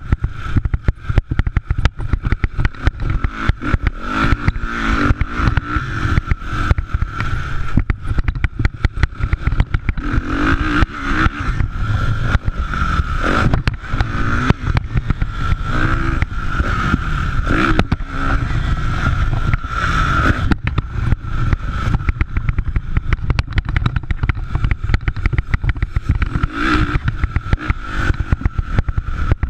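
Motocross dirt bikes racing, engines revving up and down in several swells as riders go through the track, over dense rumbling and crackling noise and a steady high tone.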